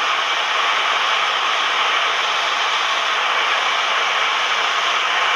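Steady, even rushing cabin noise of a Cessna 172M in flight: engine, propeller and airflow blended into a hiss with no change in pitch or level.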